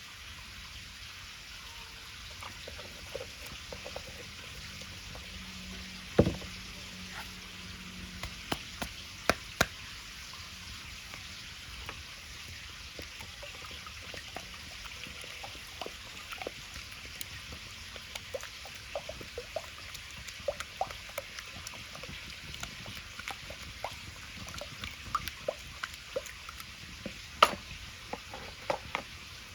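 A wood bonfire crackling with scattered sharp pops over a steady sizzling hiss, typical of pancake batter frying in a pan over the fire. A few louder pops stand out, one about six seconds in and one near the end.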